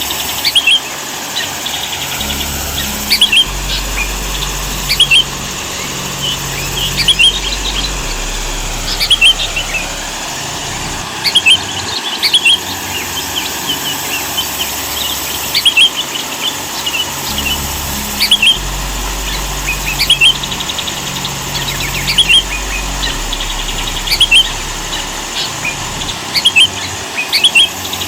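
Sooty-headed bulbul singing: short, quick chirping phrases repeated every second or two over a steady background hiss.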